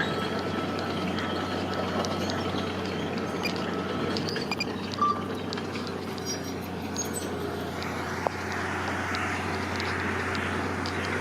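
Heavy construction machinery's engine running steadily with a low hum, with a couple of short knocks about five and eight seconds in.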